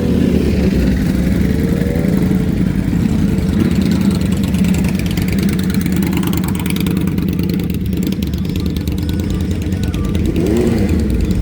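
Vehicle engines running, a steady low rumble with no sharp rise or fall.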